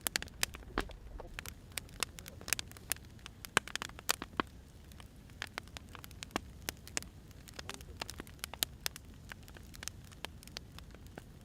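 Wood fire crackling, with irregular sharp pops and snaps, several a second, over a low steady hiss.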